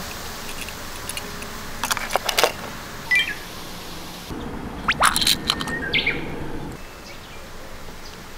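Toy minicars clicking and clattering against a plastic playset in short bursts about two and five seconds in, with a few short bird chirps between them.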